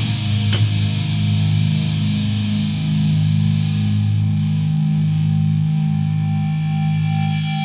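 Instrumental passage of experimental death crust music: distorted electric guitar with effects letting a low chord ring on, with a drum hit about half a second in.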